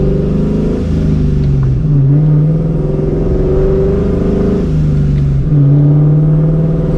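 Supercharged 4.6-litre V8 of a New Edge Mustang GT running through a catless X-pipe and Borla ATAK cat-back exhaust while driving. The engine note drops and climbs again several times and grows louder near the end as the revs rise.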